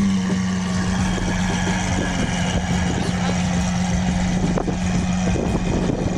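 A car engine idling with a steady, even tone, settling just after being revved. The tone fades near the end, leaving general background noise.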